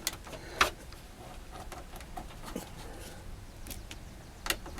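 A few short, sharp clicks and light knocks over faint room tone: one stronger click about half a second in, another near the end.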